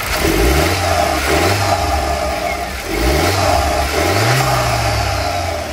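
Seat Leon FR's 1.4-litre turbo four-cylinder engine revving up about four times, its pitch climbing, holding briefly and falling back each time.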